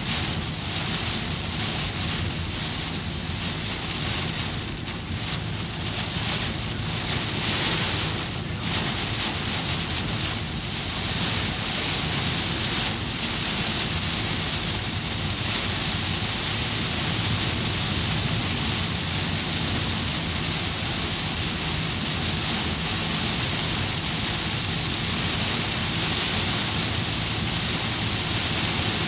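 Heavy rain pelting a car's roof and windscreen, heard from inside the cabin, over the low rumble of tyres on a wet road. The rain noise is uneven at first and settles into a denser, steady hiss after about twelve seconds.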